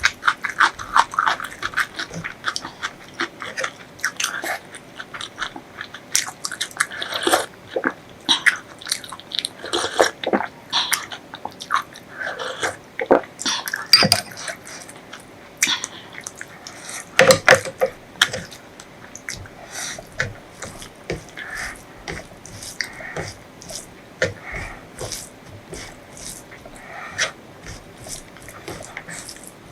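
A person chewing and biting food close to the microphone: irregular crunchy bites and wet mouth clicks, fast and uneven.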